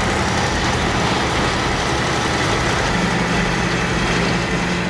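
Diesel engine of a heavy earthmoving machine running steadily, with a low engine note throughout and a firmer, steadier pitch from about three seconds in.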